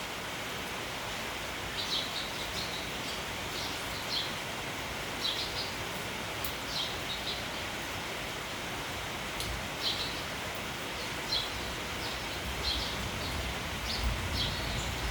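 Steady rain falling, with a flock of sparrows chirping in short bursts every second or so. A low rumble of wind comes in near the end.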